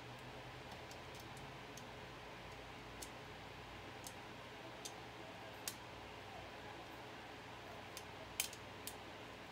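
Scattered light clicks and taps, about ten in all at uneven intervals, from small hard parts of a CPU cooler and its screws being handled and fitted onto a computer motherboard, over a faint steady hum. The loudest click comes about eight and a half seconds in.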